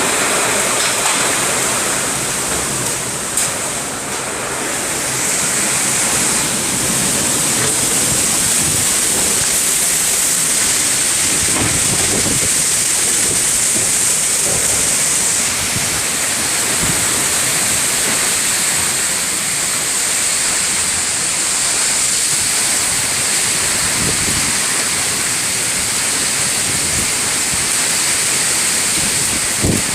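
Heavy rain pouring down steadily in a thunderstorm, with a few faint sharp ticks in the first few seconds.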